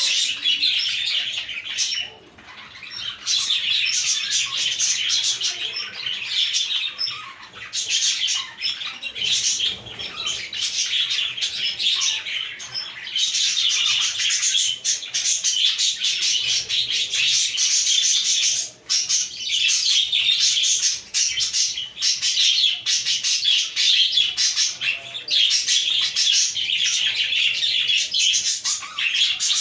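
A flock of budgerigars chattering and warbling together, a dense continuous twittering with brief lulls about two seconds in and again just past halfway.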